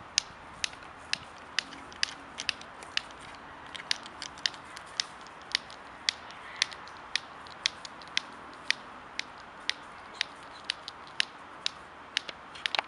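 Walnuts being knocked together in the hand, sharp clicks at about two a second.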